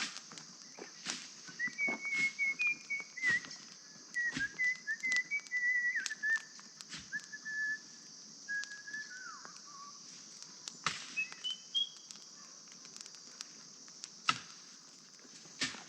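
A person whistling a tune: a run of short, wavering notes that ends in a falling glide, then a brief higher phrase. Scattered sharp clicks sound throughout.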